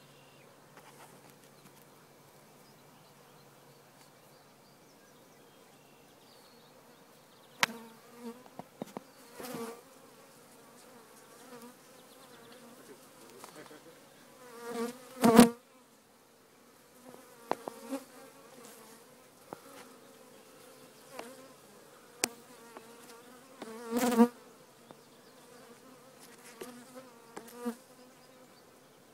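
Honeybees buzzing in a steady, continuous hum as their colony is disturbed during removal. Intermittent sharp knocks and clatters cut through the buzzing, the loudest about halfway through and another strong one about two-thirds of the way in.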